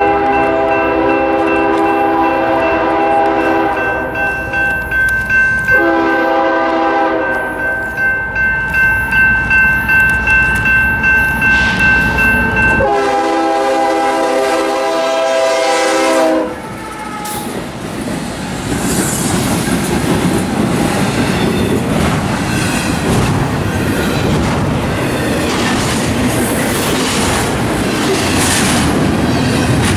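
BNSF freight locomotive's air horn sounding for the grade crossing in several blasts, the last ending about sixteen seconds in, over a steadily ringing crossing bell. Then the freight cars roll close by, wheels clattering over the rail joints with a steady rumble.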